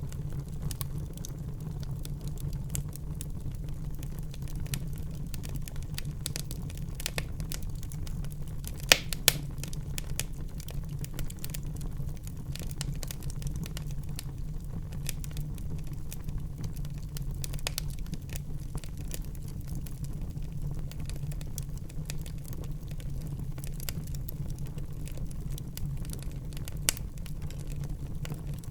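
Wood fire burning in a fireplace: a steady low rumble of flames under constant small crackles, with two loud pops close together about nine seconds in and another near the end.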